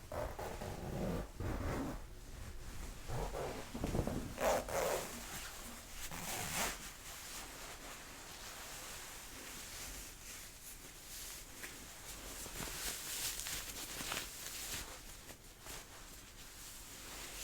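Jacket fabric rustling and swishing close to the microphone as a sleeve is rolled up, in irregular strokes, with the fullest strokes in the first half and softer rubbing after.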